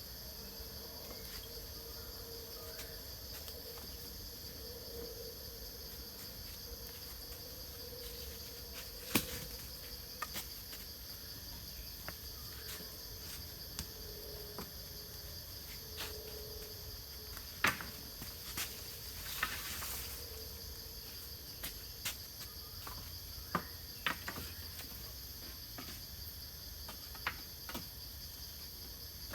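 Steady, high-pitched chorus of forest insects, with scattered sharp knocks and clicks from work nearby; the loudest knocks come about 9, 17 and 23 seconds in.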